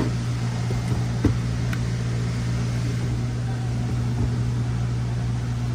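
Steady low machine hum of shop equipment, with a light knock about a second in and a faint click soon after.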